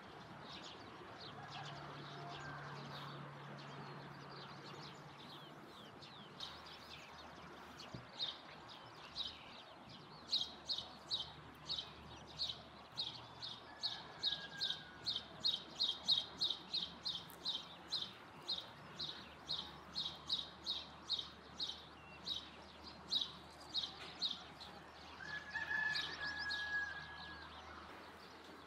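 Birds chirping: a long run of short, high chirps, about two or three a second, through the middle, with a brief lower call near the end.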